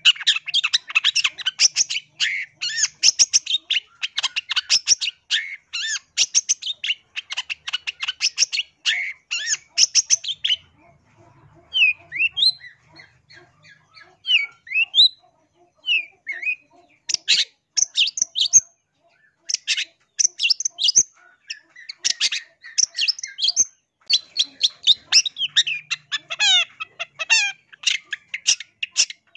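Long-tailed shrike (cendet) singing: fast runs of harsh chattering and chirping notes. About a third of the way in the song thins for several seconds to a few scattered whistled notes, then the dense chattering resumes.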